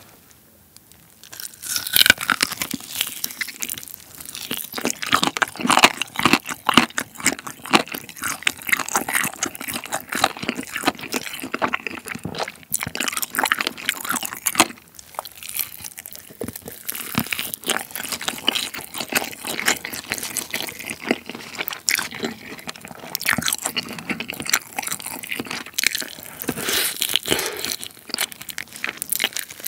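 Close-miked biting and chewing of sauce-glazed Goobne Mala Volcano chicken: crunching and wet crackling as the meat and skin are bitten off and chewed. It starts a little over a second in and keeps going, with louder bites now and then.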